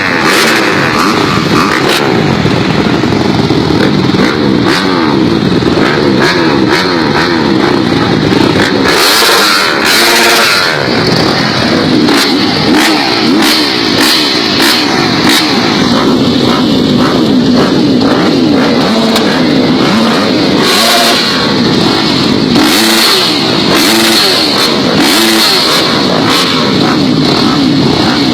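Several motocross dirt bikes running at once, their engines revving up and down, loud and continuous, the pitches overlapping and rising and falling.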